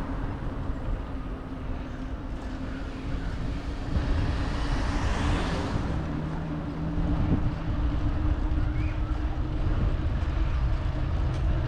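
Road traffic heard from a moving bicycle: a vehicle swells past about four to six seconds in, over a steady low rumble and hum.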